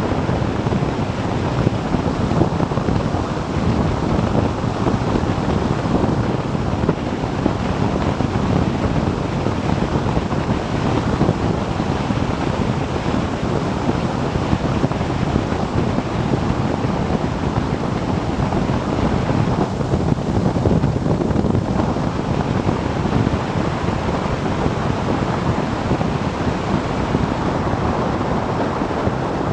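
Steady rush of wind on the microphone of a motorcycle riding at road speed, a dense low noise without let-up.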